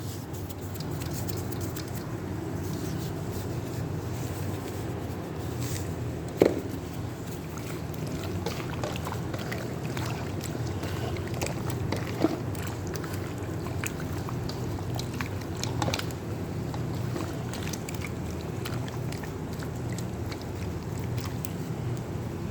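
Chicken pieces being mixed by hand in a wet yogurt-and-spice marinade: soft squelching and small clicks, with a few sharp knocks, over a steady low hum.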